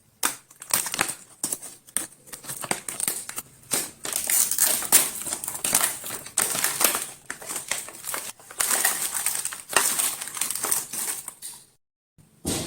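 Snacks and sweets being tipped and piled onto a platter: dense crackling and rattling in bursts of a second or two. It stops near the end, followed by one short knock.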